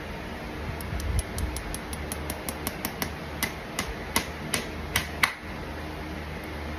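Farrier's hammer striking metal in a run of quick light taps, about five a second, that slow into fewer, harder blows, the last ones the loudest, before stopping.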